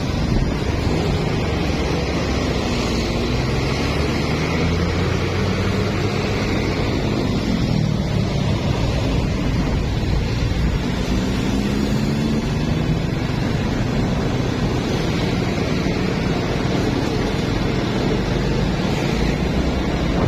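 Honda Blade underbone motorcycle's small single-cylinder engine running while riding, its pitch rising and falling several times with the throttle. Heavy wind noise on the microphone runs under it.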